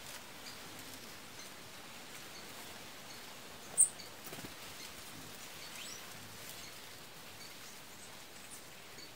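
Faint outdoor hiss with scattered short, high bird chirps. One sharp, loud high chirp comes about four seconds in.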